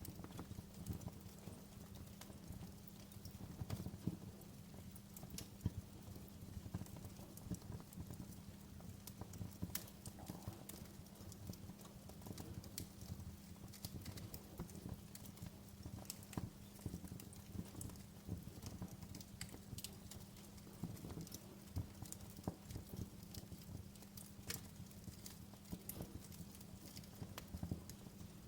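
Wood fire crackling in a fireplace: irregular small pops and snaps over a low steady rumble of the flames.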